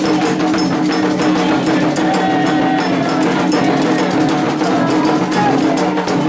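Candomblé ceremonial music: drums and struck percussion beating a fast, steady rhythm over held pitched tones.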